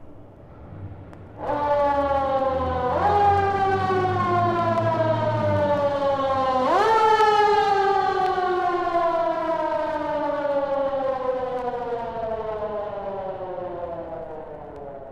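A siren wailing: its tone jumps up and slowly falls three times, the last fall long and fading away, over a low rumble in the first few seconds.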